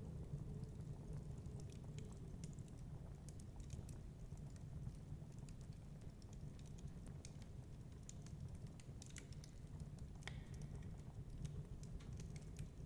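Wood fire crackling in a fireplace: irregular small pops and snaps over a steady low rumble, with one sharper pop about ten seconds in.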